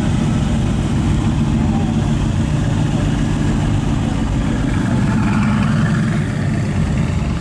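A car engine idling with a steady, deep exhaust note that grows a little louder about five seconds in.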